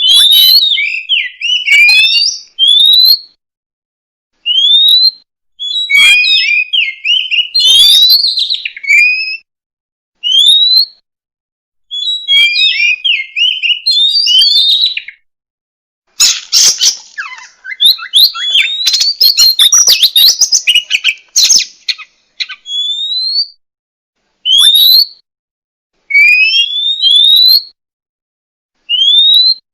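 Oriental magpie-robin singing: loud phrases of quick rising whistles and chirps, separated by short pauses, with a harsher, scratchier run of notes in the middle.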